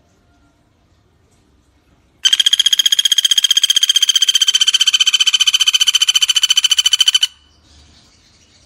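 Pelatuk bawang woodpecker (common flameback) giving its rattling call: one loud, fast, even trill of about five seconds, starting about two seconds in and stopping abruptly.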